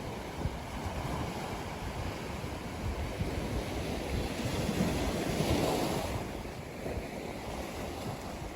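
Ocean waves washing onto a sandy beach, one wave swelling and breaking about five seconds in, with wind rumbling on the microphone.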